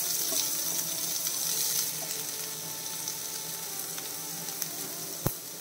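Chopped red spinach mixed with grated coconut sizzling in hot oil in a non-stick pan, just added to fried shallots, garlic and chillies. It is a steady hiss that eases slightly about two seconds in, with one sharp click near the end.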